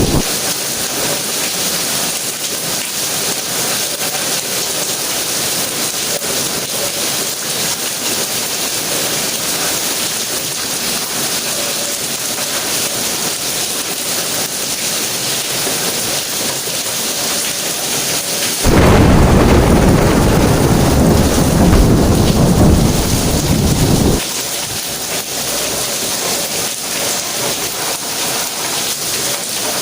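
Steady rain hiss in a thunderstorm. About two-thirds of the way in a loud, low thunder rumble swells in for about five seconds, then cuts off abruptly.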